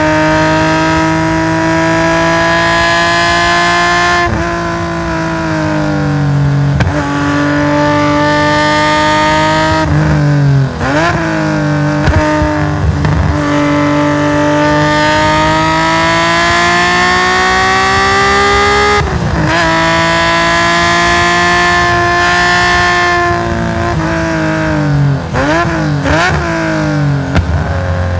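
Nissan S20 2.0-litre twin-cam straight-six of a race-tuned Hakosuka Skyline GT-R running hard, its note climbing steadily through the revs and dropping sharply at each upshift. About ten seconds in, and again near the end, it falls away under braking with quick throttle blips on the downshifts.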